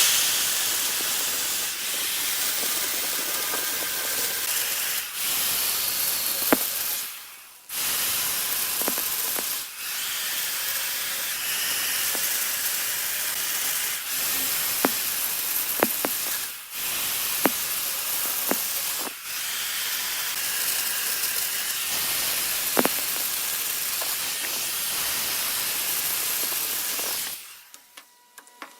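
A turning tool cutting wood on a spinning lathe workpiece: a steady, loud hissing shear that stops briefly several times as the cut pauses, with a few sharp clicks.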